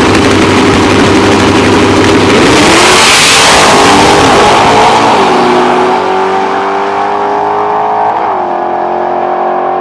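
Drag-race cars at wide-open throttle running down the strip. The sound is loudest and hissiest about three seconds in as they pass close by. It then settles into a steady engine note rising slowly in pitch, with a brief drop and step about eight seconds in.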